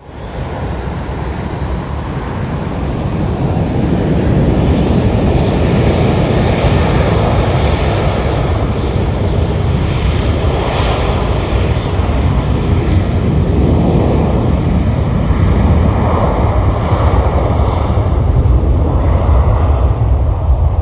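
Airbus A340-600's four Rolls-Royce Trent 500 jet engines running close by: a loud rushing roar with a deep rumble that builds over the first few seconds and then holds steady.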